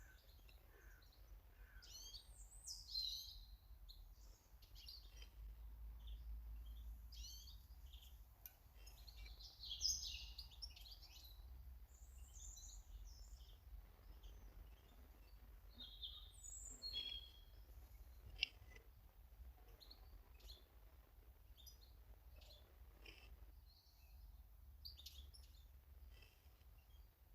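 Garden birds calling and singing faintly: a scatter of short high chirps and trills throughout, over a steady low rumble, with one sharp tick about eighteen seconds in.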